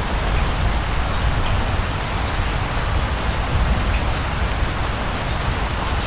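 Steady rain falling, an even hiss with a low rumble underneath and faint scattered drop ticks.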